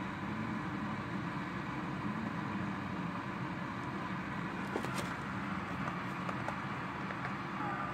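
Heavy rain falling steadily in a thunderstorm, an even hiss, with a few faint ticks about five seconds in.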